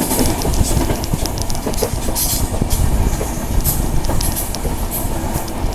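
Indian Railways express train running at speed, heard from an open coach doorway: a steady rumble and rush of wheels and wind, with scattered sharp clicks from the wheels over the track.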